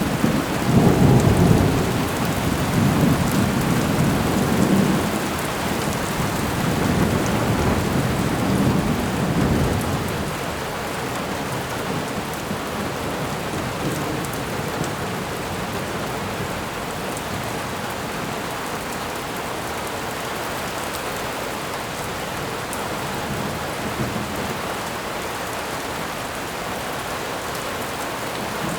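Steady rain falling, with thunder rolling and rumbling through the first ten seconds or so before it fades out. The rain then carries on alone.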